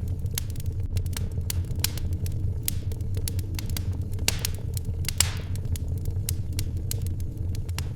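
Wood fire in a fireplace crackling, with frequent irregular pops over a steady low rumble and two brief hisses, about three and five seconds in.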